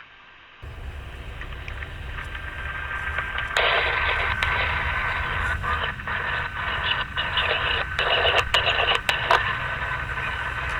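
Radio-like static: a low rumble comes in about half a second in, then a loud hissing crackle with a steady whistling tone joins a few seconds later, broken by sharp clicks.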